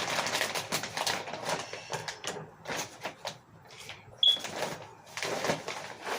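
Bird seed and its bag handled while filling a bird feeder: rustling, rattling and small clicks in uneven spurts, with one short high squeak about four seconds in.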